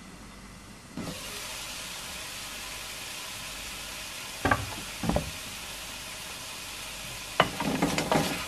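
Chicken pieces sizzling in oil in a nonstick wok; the hiss grows louder about a second in, when the glass lid comes off. Two knocks come around the middle, then a wooden spatula knocks and scrapes against the pan near the end as the chicken is stirred.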